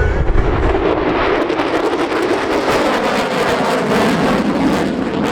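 Loud jet noise from the F-22 Raptor's two Pratt & Whitney F119 afterburning turbofans during a display pass. A deep rumble fades about a second in, leaving a steady, crackling roar.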